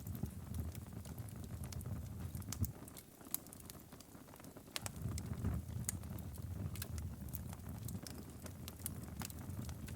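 Wood fire in a fireplace crackling, with frequent sharp pops and snaps over a low rumble of the flames; the rumble drops away for a couple of seconds near the middle, then returns.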